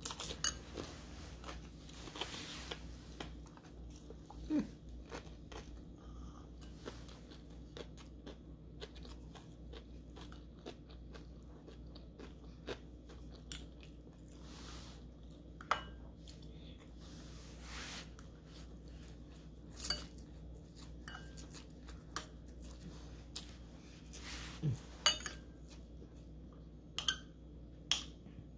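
A person chewing mouthfuls of pancit noodles and fried egg roll close to the microphone, with scattered sharp clicks of a metal fork against a ceramic bowl.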